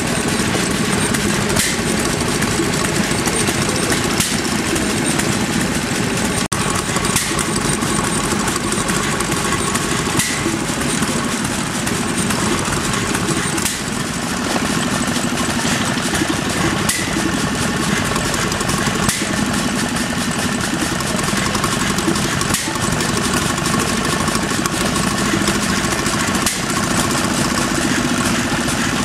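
Vintage stationary engine running steadily at a constant speed.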